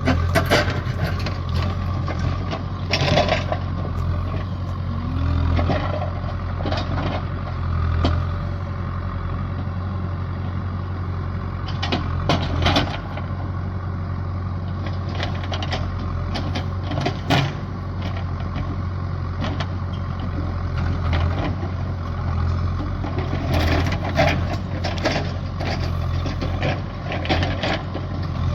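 A large engine running steadily with a low hum, with scattered knocks and clatter over it, typical of heavy machinery working on a building site.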